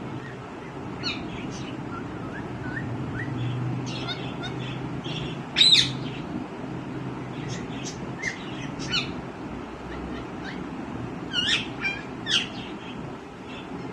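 Green ringneck parrot (rose-ringed parakeet) giving scattered short chirps and whistles, with one loud screech about halfway through and a quick run of calls near the end, over a steady low hum.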